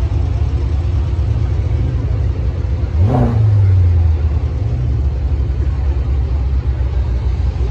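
Car engine running with a steady low rumble, revved once about three seconds in: a quick rise in pitch that falls back over about a second.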